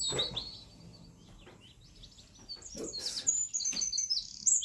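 Small songbirds chirping and twittering in short high calls, busiest near the start and again near the end. A few knocks, one near the start and one about three seconds in.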